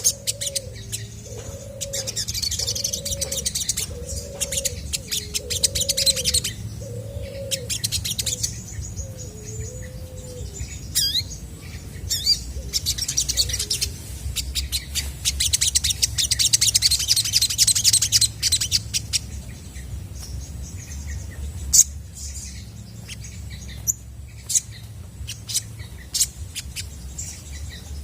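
Olive-backed sunbird calling: bursts of high, rapid chirps and trills with short sweeping whistles between them. A lower repeated note sounds about once a second for roughly the first ten seconds, over a low steady hum.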